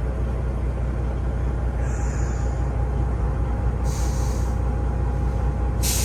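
Semi-truck diesel engine idling steadily, with short hisses of compressed air from the truck air-brake system: a faint one about two seconds in, another about four seconds in, and a louder one near the end.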